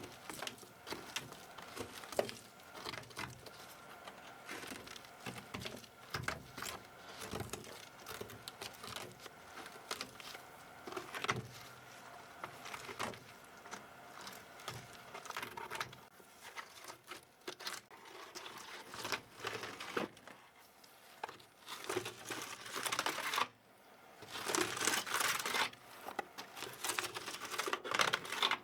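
A dirty plastic computer keyboard being handled and cleaned: irregular clicks and knocks of plastic parts, with stretches of scratchy rubbing or brushing near the end.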